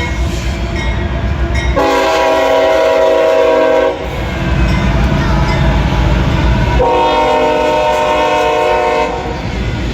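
CSX locomotive air horn sounding two long blasts, each a held chord of several notes and about two seconds long, over the steady low rumble of the train.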